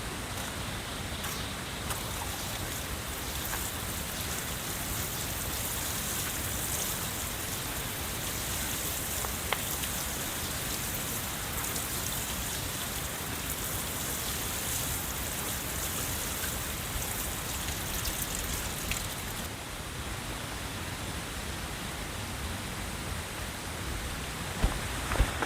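Steady rain falling, an even hiss of many small drops with no break.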